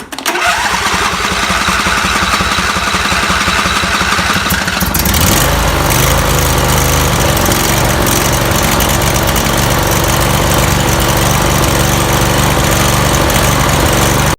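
Husqvarna YTH2348 riding mower's 23-horsepower engine starting up and running steadily, its sound shifting about five seconds in. The engine is one with a known surging problem.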